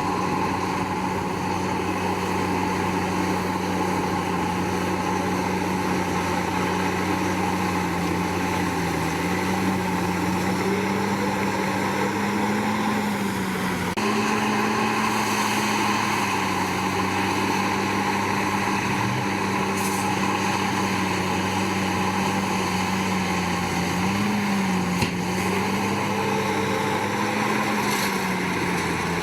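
Komatsu D61PX bulldozer's diesel engine running steadily under work, its pitch rising and dipping slightly a few times as the load changes.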